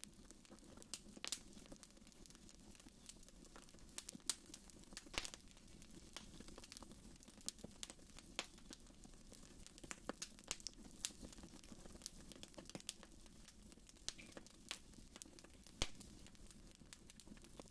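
Wood fire in a fireplace crackling: irregular sharp pops and snaps over a faint low rumble, with one louder pop near the end.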